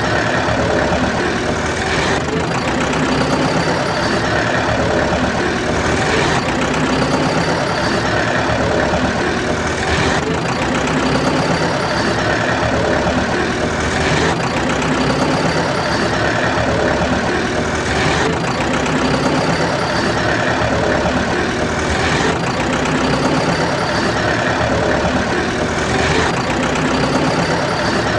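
Tractor engine idling with a steady knocking beat, the same few seconds of sound repeating about every four seconds like a loop.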